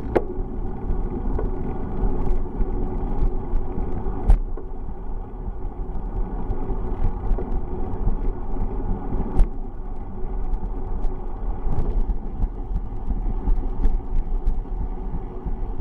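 Steady low rumble of a bicycle being ridden, the ride noise picked up by the camera, with scattered sharp knocks, the loudest about four and nine seconds in.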